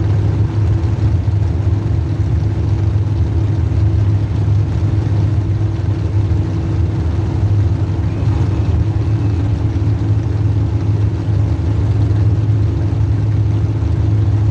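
Demolition derby car's small-block Chevy V8 running at a steady speed with little change in revs.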